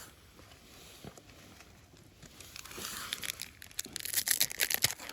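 Foil Pokémon card booster pack being crinkled and torn open: a dense crackle of sharp clicks that starts about halfway through and grows louder toward the end.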